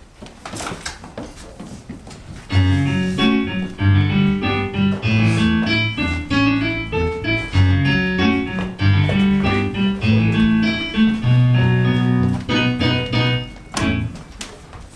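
Instrumental keyboard music, piano-like, playing a busy run of chords and notes. It comes in loudly about two and a half seconds in, after a quieter start.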